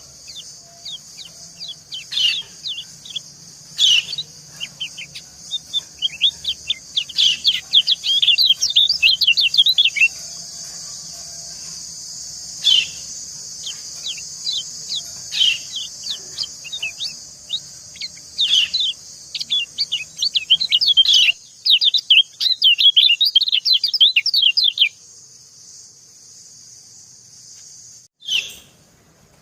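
White-eye (kecial) calling: short, high, down-slurred 'ciak' chirps, singly and in fast rattling runs. This is the female's call used to lure and excite males. A steady high hiss runs beneath the calls and drops out about 25 seconds in.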